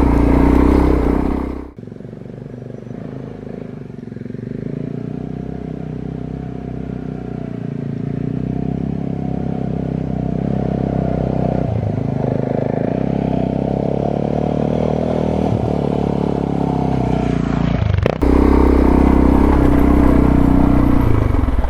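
Suzuki DR650 single-cylinder engine running as the motorcycle climbs a steep dirt road. Loud at first, it drops abruptly about two seconds in to a quieter engine note that slowly builds, then jumps back to full loudness near the end.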